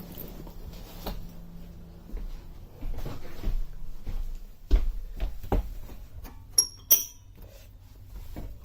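The back door of a mini school bus being worked open: a few knocks and thuds, then two sharp metallic clinks with a high ring about two-thirds of the way through.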